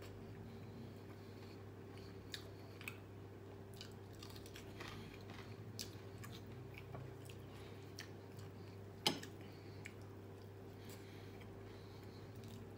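Close-up chewing of a mouthful of rice and fried chicken eaten by hand, with scattered small crisp clicks and one sharper click about nine seconds in, over a steady low hum.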